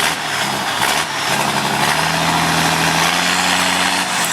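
Tow truck engine running hard under load as the truck strains to pull a heavy rock out of a ditch, its pitch stepping up about two seconds in and again a second later.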